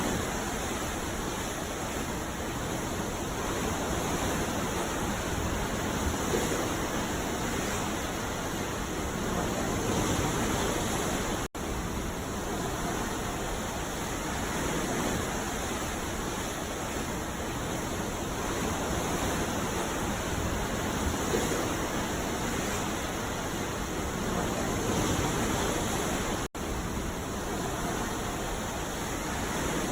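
Ocean surf washing onto a beach: a steady, full rushing sound that swells and eases slowly. It cuts out for an instant twice.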